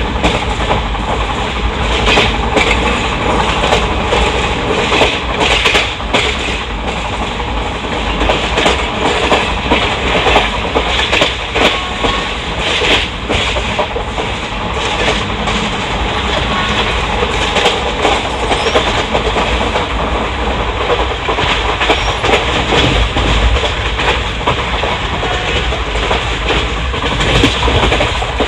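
Wheels of an ICF passenger coach running at speed over the track, heard from inside the coach: a steady rumble with a continual clatter of clicks and knocks from the wheels crossing rail joints.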